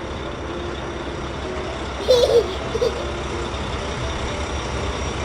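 Cartoon truck engine sound effect, a steady low running rumble, with a brief wavering vocal sound about two seconds in.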